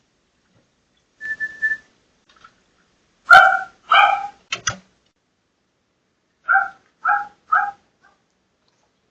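Dog barking in two short runs of about three barks each, the barks about half a second apart, after a brief whistle-like tone near the start.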